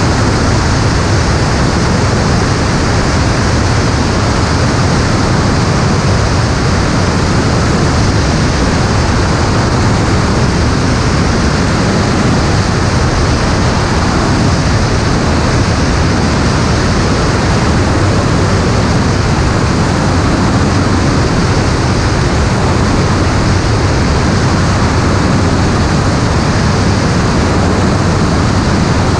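Steady, loud engine and airflow noise of an aircraft in flight, an even rushing drone with a low hum underneath that does not change.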